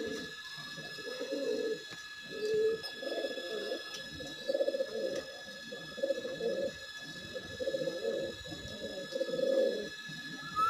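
Domestic pigeon cooing over and over, low coos of about a second each with short breaks between them.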